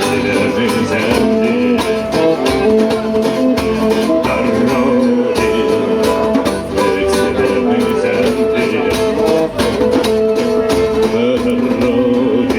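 Live band music, with guitar playing throughout.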